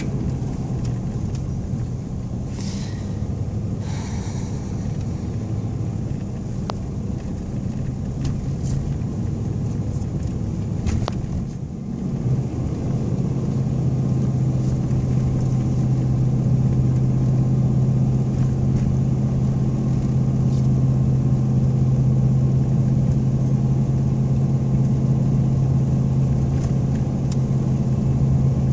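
Pickup truck with mud tires driving steadily on a snowy road, heard from inside the cab as a continuous low drone. About twelve seconds in, the drone grows louder and settles into a steadier hum.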